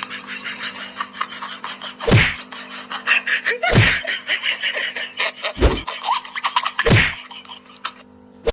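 Four heavy thumps over a constant rapid clicking clatter.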